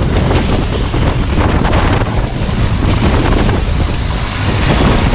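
Longtail boat engine running steadily under way, with strong wind buffeting the microphone.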